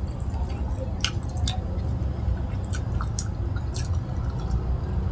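Close-up wet chewing of a mouthful of fried catfish and rice, with sharp wet smacking clicks scattered through it, over a steady low hum.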